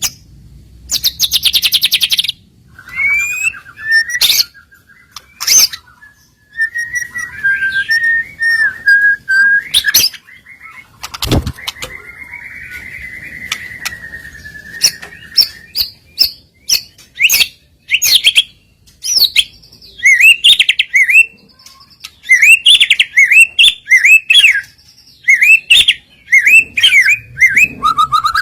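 White-rumped shama (murai batu) singing a varied song with mimicked fill-in phrases. A buzzy high trill, wavering whistles and a long chattering phrase give way to a fast run of short sweeping whistles.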